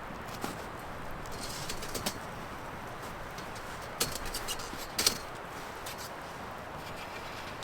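Steady background hiss with a few sharp clicks and knocks, the loudest about five seconds in.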